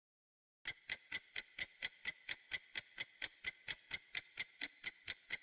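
Clock-tick sound effect: even, sharp ticks about four a second, starting about a second in, used as a countdown timer.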